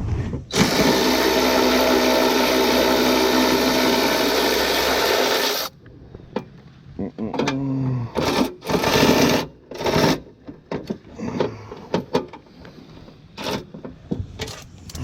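A cordless power tool runs steadily for about five seconds, loosening a fastener, then cuts off; a few shorter bursts and handling clicks follow.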